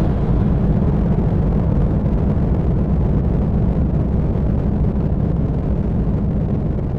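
Elektron Model:Cycles FM groovebox playing a low, rumbling, noise-like synth drone with no percussion, easing off slightly toward the end.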